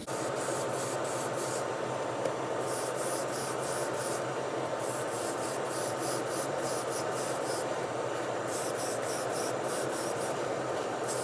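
Steady rubbing over a constant hum, with rhythmic scraping strokes about three a second that come and go in stretches, as from abrasive work on a small diecast part.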